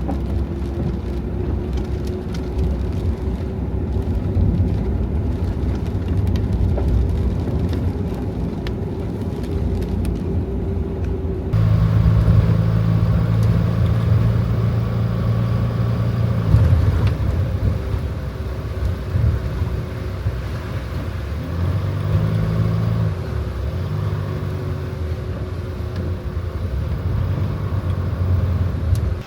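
Inside a Toyota HiAce van on the move: steady low engine and road rumble, with the engine note stepping up and down as the speed changes. The sound changes abruptly about eleven seconds in.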